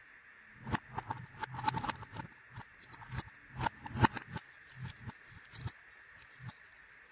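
Tiny toy pieces and packaging handled by hand: irregular clicks, taps and short rustles, loudest about four seconds in, dying away a couple of seconds before the end.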